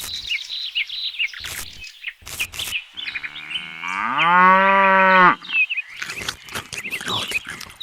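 A cow mooing once, one long moo that rises and then holds for about two seconds near the middle, over birds chirping with quick short calls throughout. Several sharp clicks or taps come and go around it.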